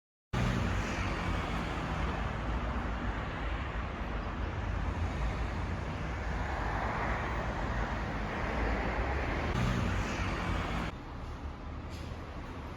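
Steady vehicle road noise with a low rumble, swelling a little in the middle, then dropping suddenly to a lower level about eleven seconds in.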